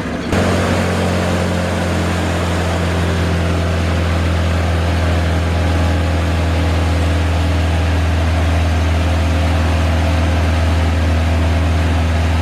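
Boat engine running at a steady, unchanging speed: a loud low hum that sets in sharply just after the start.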